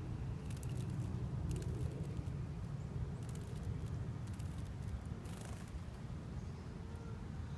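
Small birds bathing in a bird bath: several brief bursts of splashing and fluttering, over a steady low rumble.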